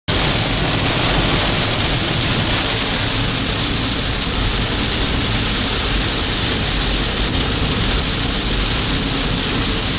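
Heavy rain hitting a moving car, a steady dense hiss over a low road rumble.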